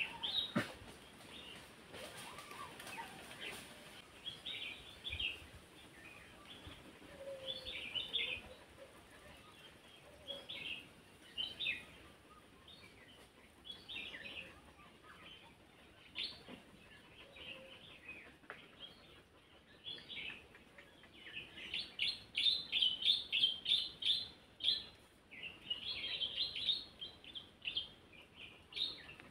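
Small birds chirping in short, repeated phrases, busiest in the last third.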